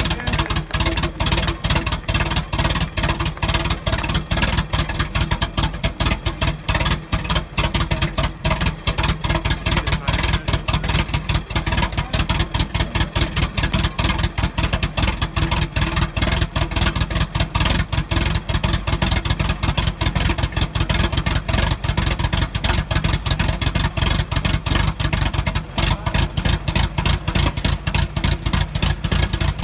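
Brass-era car engine running steadily, a rapid, loud, even chatter of exhaust firing pulses.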